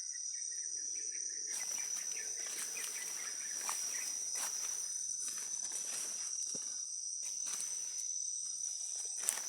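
Steady high-pitched drone of rainforest insects, one unbroken tone. From about a second and a half in, irregular rustling and light snaps of vegetation join it.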